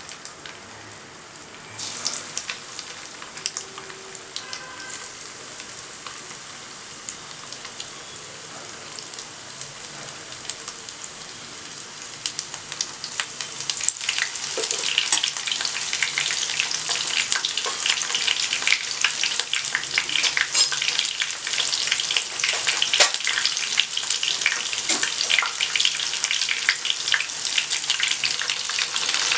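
Coated paneer fingers sizzling in hot oil in a nonstick frying pan as they are put in one by one. The crackling frying grows louder and busier from about halfway through, once the pan is full of pieces.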